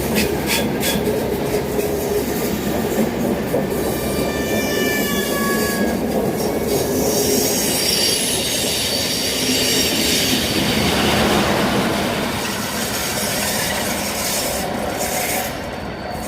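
A train running slowly through a station, its wheels squealing on the rails over a steady rumble. The squeal is loudest a few seconds in, with higher squeals following, and the sound eases off near the end.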